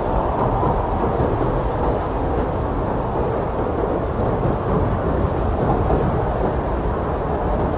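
Strong blizzard wind blowing steadily: a dense, low rushing roar with no separate gusts or breaks.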